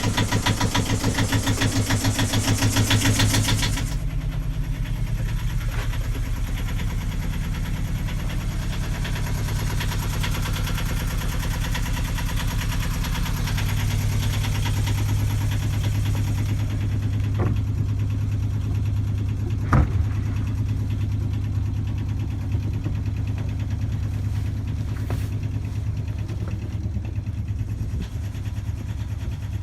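A sailing yacht's inboard engine idling steadily with a rhythmic beat after a successful start, running normally. About four seconds in it becomes quieter and duller. A few sharp knocks sound over it later on.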